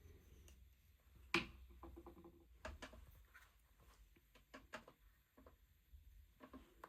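Near silence in a small room, broken by faint scattered clicks and taps, with one sharper click about a second and a half in.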